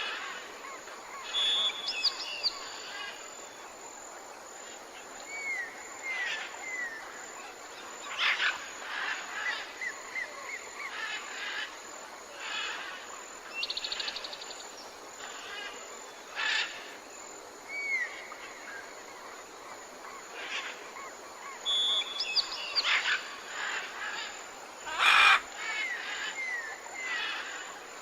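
Tropical forest birds calling: scattered chirps, short whistles and curving call notes from several birds over a steady hiss of forest ambience. The loudest is a short noisy call near the end.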